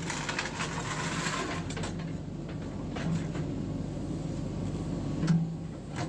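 JCB 3DX backhoe loader's diesel engine running steadily, with a rattling, scraping noise over the first two seconds and one sharp clank about five seconds in.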